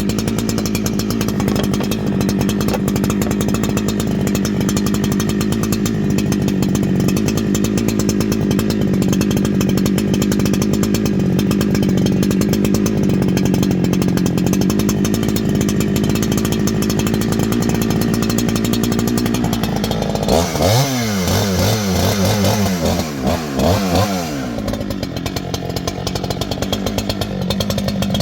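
G288 chainsaw, an 80–90 cc two-stroke, running steadily at high speed while cutting a wet log with a tungsten carbide chain. About twenty seconds in, its pitch swings up and down several times for a few seconds, then settles to a lower, steady note.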